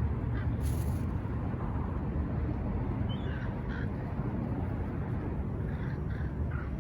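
Seagulls giving short cawing calls, a couple about three seconds in and a few more near the end, over a steady low rumble.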